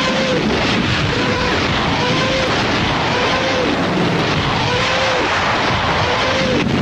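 Rocket barrage from a German Panzerwerfer launcher: a dense, rushing din with a short rising-and-falling moaning tone repeating roughly once a second.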